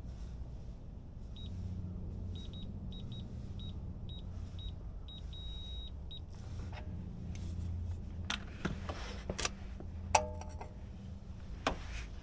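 A run of short, high electronic beeps, irregularly spaced and ending in one longer beep, over a steady low hum. A few sharp clicks and knocks follow near the end.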